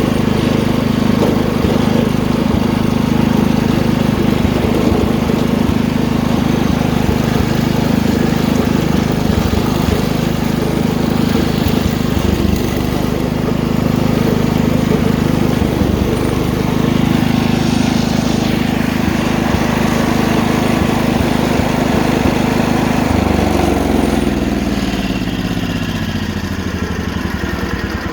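Wheel Horse 310-8 garden tractor's single-cylinder engine running steadily while the tractor is driven. About 23 seconds in it is throttled back, and its pitch falls over the last few seconds.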